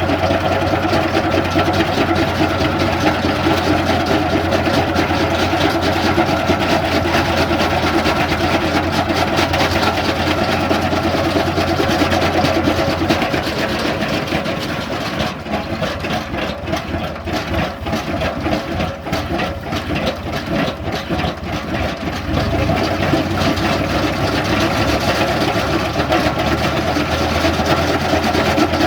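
Tractor engine running steadily with an even, fast pulse. It turns quieter and rougher for several seconds around the middle, then comes back to its earlier level.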